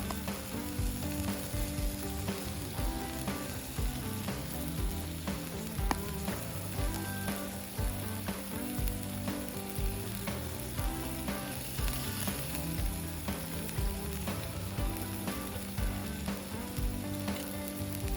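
Meat sizzling and spitting as it grills on a hot iron steak plate, a continuous crackling frying sound, over soft background music with a steady beat.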